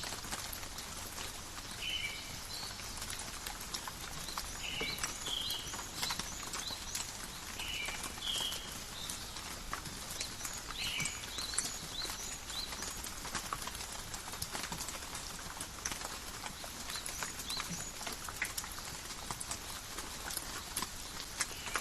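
Gentle rain in a forest: a steady hiss with many scattered drips ticking on leaves. In the first half a few short high chirps sound, about six over ten seconds, then stop.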